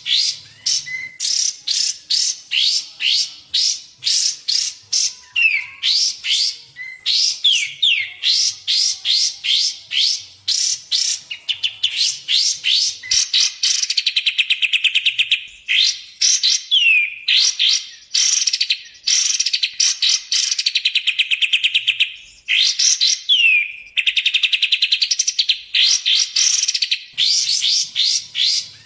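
Songs of kapas tembak and cucak jenggot bulbuls played as a masteran training track. It is a busy stream of sharp, high, down-slurred chips in quick runs, broken every few seconds by long rapid trills.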